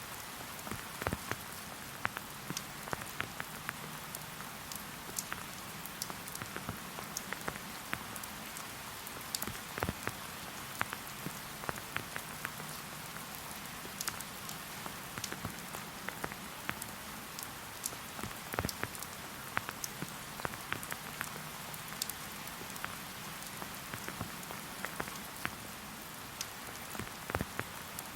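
Steady rain falling in a forest, with a continuous hiss and many separate drops ticking sharply close by, several a second.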